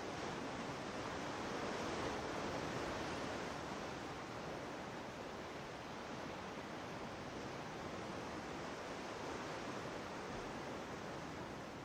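Ocean surf washing onto the shore, a steady rush of waves that swells a little about two seconds in and then eases.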